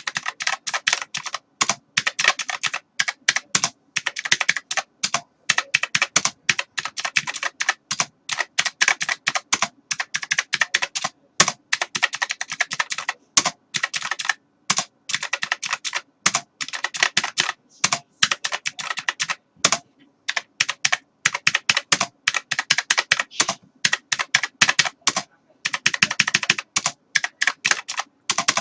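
Computer keyboard being typed on continuously: fast, irregular key clicks in runs, with short pauses every few seconds.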